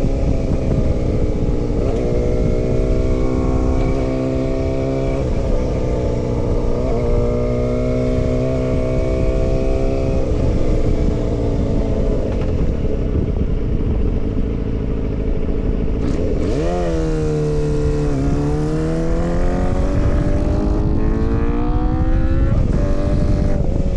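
Motorcycle engine under way, held at steady revs with a few brief dips like gear changes, then the revs fall about two-thirds of the way through and climb again, over a low rush of wind noise.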